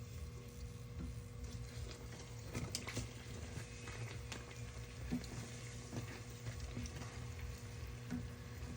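Faint sizzling of bake dough frying in oil, with scattered light clicks and a low steady hum.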